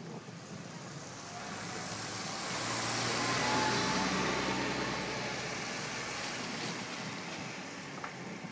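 A road vehicle driving past: its engine and tyre noise build to the loudest point about three and a half seconds in, then slowly fade.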